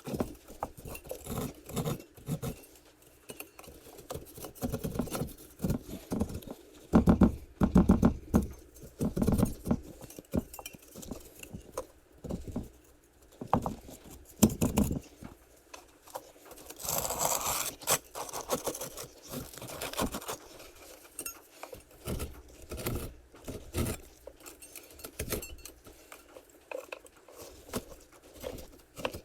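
Hand tool chipping and scraping at a hardened perlite and white cement casting while form pieces are worked loose: a long run of irregular knocks, taps and scrapes, with a longer scrape about seventeen seconds in.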